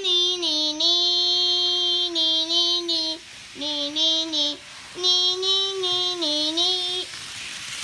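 A child singing a tune in long, held notes, stepping between a few pitches, with two short breaks.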